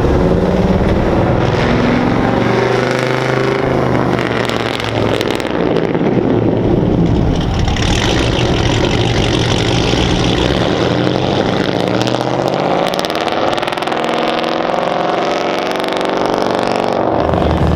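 A car engine revving up and down repeatedly, loud and sustained.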